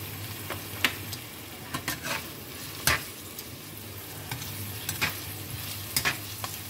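Diced onion and minced garlic sizzling in oil in a nonstick wok, sautéing, while a spatula is stirred through them and scrapes and taps against the pan five or six times.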